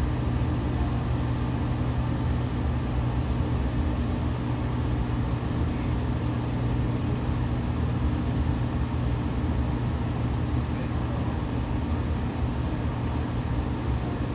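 Seibu 2000 series electric train (set 2001F) running at a steady speed, heard from inside the car: a continuous rumble of wheels on rail with a constant low motor and gear hum. This set has a flat spot on a wheel.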